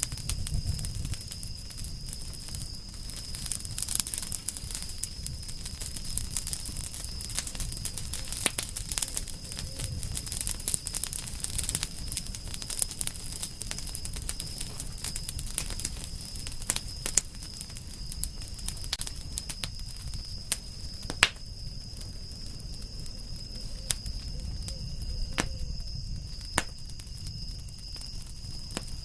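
Campfire of burning firewood crackling, with frequent irregular sharp pops and snaps over a low steady rumble; one pop about 21 seconds in is the loudest.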